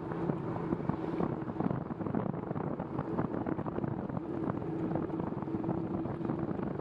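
Wind buffeting the microphone over the hiss of bicycle tyres on a wet road, with a steady low hum throughout.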